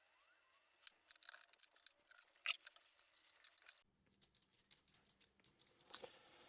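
Near silence with faint scattered clicks and light handling noises, the sharpest click about two and a half seconds in.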